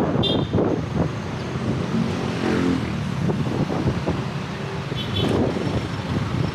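Wind buffeting the microphone on a moving e-bike over the steady rumble of road traffic. A nearby motor vehicle's engine rises in pitch about two seconds in.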